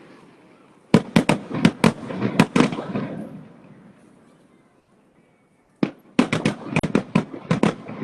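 Fireworks bursting overhead in two rapid volleys of sharp bangs, one about a second in and another near the end, each trailing off in a rumbling echo.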